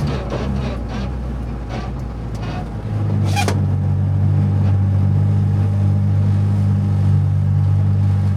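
Mitsubishi Evo VI Group A rally car's turbocharged four-cylinder engine idling at a steady pitch, with scattered light clicks and one sharp click about three seconds in, after which the engine sounds louder.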